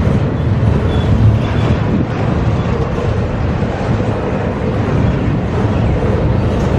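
A long CSX freight train's cars rolling past on the rails: a loud, steady rolling noise of wheels on track, heaviest in the low end.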